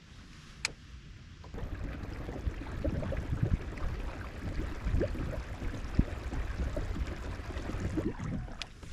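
Water gurgling and sloshing around a kayak's hull as it moves, starting about a second and a half in, after a single sharp click.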